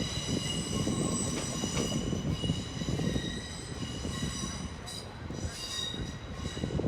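Passenger train pulling out of the station, its wheels rumbling over the track with a steady high-pitched wheel squeal.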